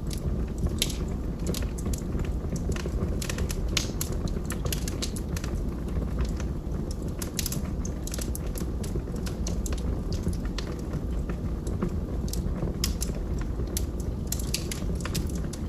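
Wood fire in a fireplace crackling, with frequent sharp, irregular pops and snaps from the burning logs over a steady low rumble.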